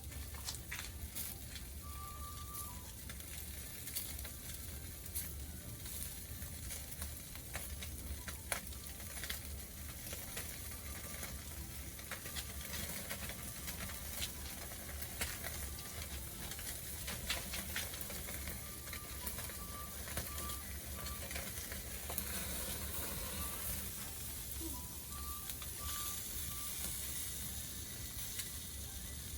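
Pacific saury sizzling as it grills over a wood fire, with the fire's irregular sharp crackles and pops.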